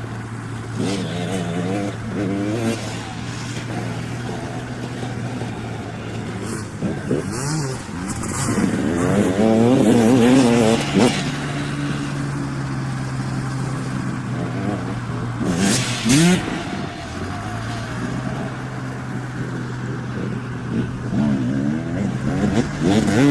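Dirt bike engines revving up and down, the pitch rising and falling in waves. The engines are loudest about nine to eleven seconds in, over a steady low engine drone.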